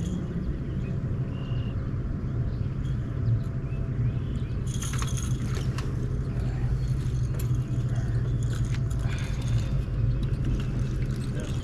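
Pontoon boat motor running with a steady low drone, with a few rattling clicks of handled fishing gear about five seconds and nine seconds in.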